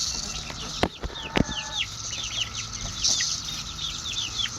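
Chickens cheeping and clucking, a steady run of many short, falling peeps, as they are given live cicadas. Two sharp knocks come about a second in.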